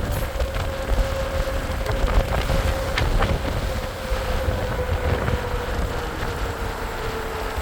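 Wind buffeting the microphone during a ride, with a steady hum slowly dropping in pitch from the vehicle's drive.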